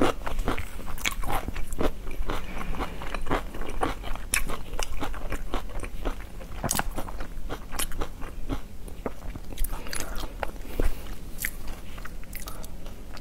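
Close-miked chewing: a dense run of crunches and wet mouth clicks as food is bitten and chewed.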